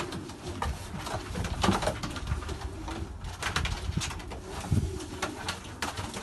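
Domestic pigeons cooing, with several short clicks and knocks among the coos.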